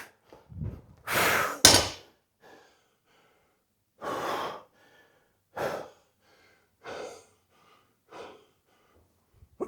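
A winded athlete breathing hard between heavy power snatch reps, with a loud deep gasp about a second in and then shorter, separate exhales every second or so.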